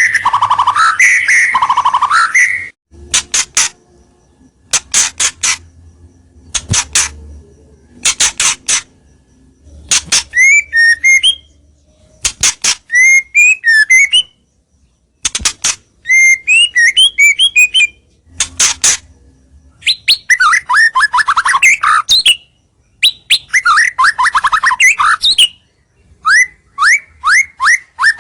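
White-rumped shama singing loudly in bursts of varied phrases: rapid rattling runs, sharp chirps and falling whistled notes, with short pauses between phrases.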